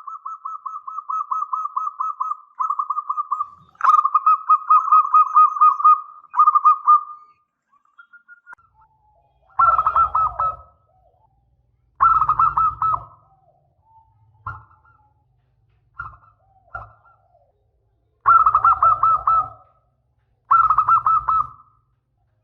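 Zebra dove (perkutut) cooing: a long run of rapid, pulsing coo notes for the first seven seconds or so, then shorter separate cooing phrases about every two seconds.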